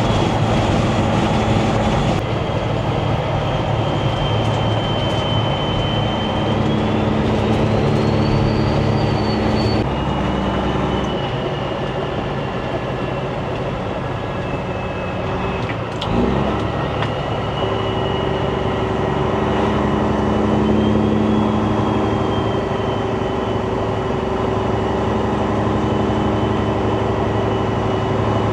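Semi-truck diesel engine and road noise heard inside the cab while driving, a steady drone whose note changes a few times, with a thin high whine above it. A single sharp click comes about two-thirds of the way through.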